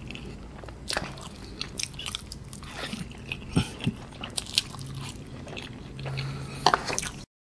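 Close-miked chewing of saucy Samyang Cream Carbonara instant noodles: a run of soft wet mouth clicks and smacks. The sound cuts off abruptly near the end.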